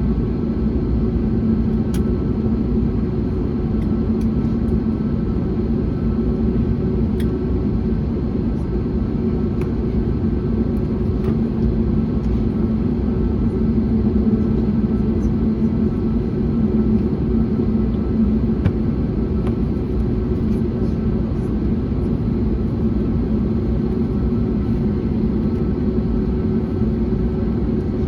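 Steady cabin drone of an Airbus A321neo in flight: its Pratt & Whitney geared turbofans and the airflow make a constant low rumble with a couple of held low hum tones.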